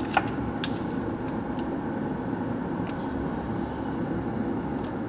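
Steady mechanical hum of workshop background noise, with a few sharp light clicks of tools or metal parts being handled during tractor disassembly and a brief hiss a little past halfway.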